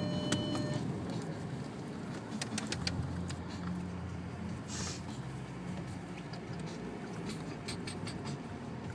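Car engine heard from inside the cabin, a steady low drone that shifts in pitch a few times as the car is driven on snow. Scattered clicks and ticks sound over it, with a brief squeak at the start.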